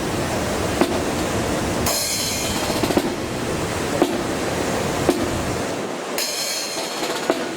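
Marching brass band with drums playing outdoors, largely buried under strong wind buffeting the microphone, with a drum beat about once a second. The low wind rumble eases about six seconds in.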